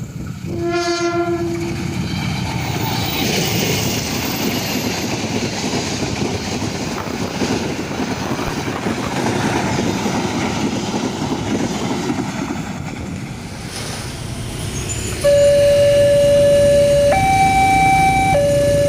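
A short train horn blast, then a train rumbling and clattering past the level crossing for about twelve seconds. About fifteen seconds in, the crossing's electronic Alkmaar-type warning siren starts, switching back and forth between a lower and a higher tone every second or two. It is louder than the passing train.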